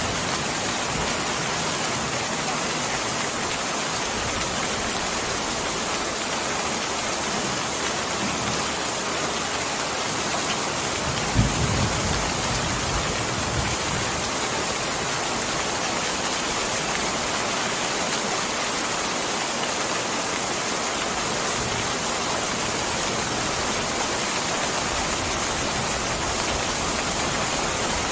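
Steady rain, an even hiss, with a brief low thud about eleven seconds in.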